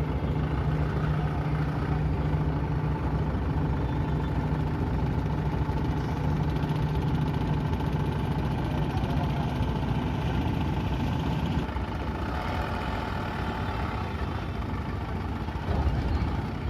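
A large engine running steadily with a low hum. About twelve seconds in the hum drops away and a rougher, noisier engine sound takes over.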